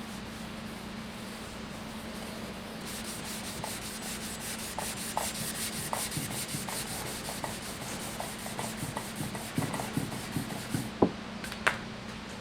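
Sandpaper rubbing over the wet, cured finish of a stave drum shell during wet sanding, starting about three seconds in as a rapid, even series of strokes, over a steady low hum. A couple of sharp knocks near the end.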